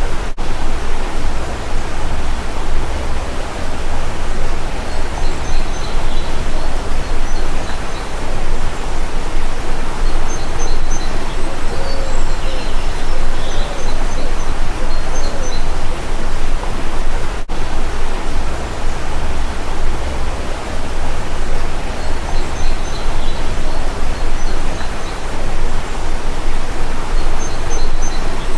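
Stream water rushing steadily, with birds chirping faintly now and then above it.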